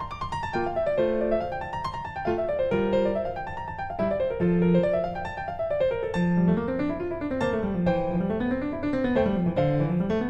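Background piano music playing flowing arpeggios that rise and fall, with a lower line moving in waves beneath.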